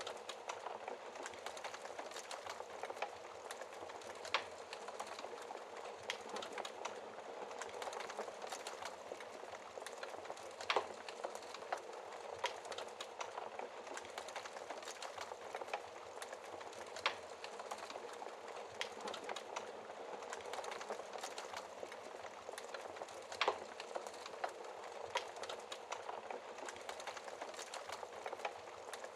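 Wood fire crackling in a fireplace: a steady hiss with irregular sharp pops and snaps, a few louder ones scattered through.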